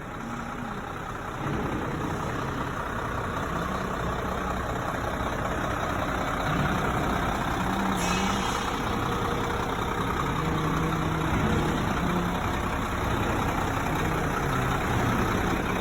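Heavy truck engine running steadily, with a brief hiss about eight seconds in.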